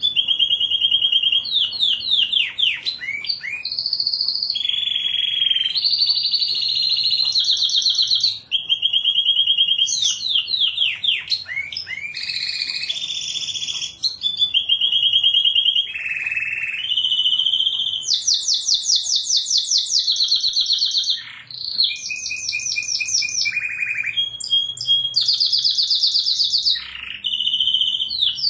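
Domestic canary singing a continuous, varied song of fast trills and rapidly repeated notes with quick rising and falling glides, switching from one phrase to the next every second or two.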